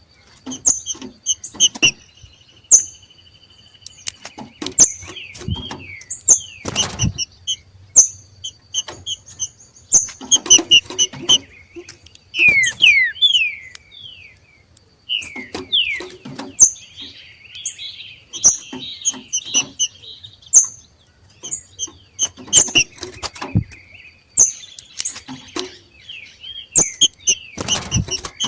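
Green-winged saltators (trinca-ferro) giving their 'macheado': short, sharp chirps and quick down-slurred notes in irregular bursts, mixed with scattered clicks. A faint steady high tone runs beneath through much of it.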